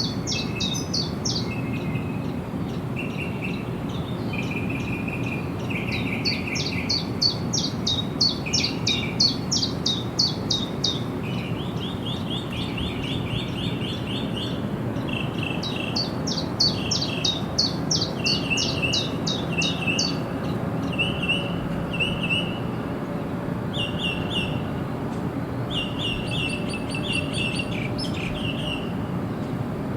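Birds singing: runs of rapid high chirps a second or two long, repeated again and again, with lower chirping phrases in between, over a steady low background noise.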